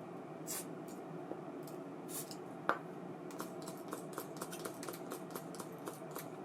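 Small clicks and taps of hands working on an ABU Ambassadeur 2500C baitcasting reel over a steady hum: one sharp click a little before halfway, then a run of quick, even ticks, about four a second.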